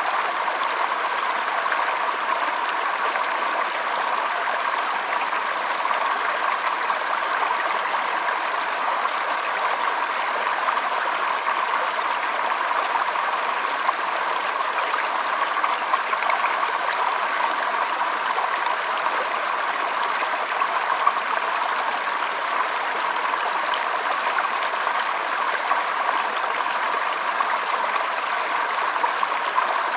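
Shallow stream trickling and flowing over stones: a steady, even rush of water with small gurgles and splashes, unchanging throughout.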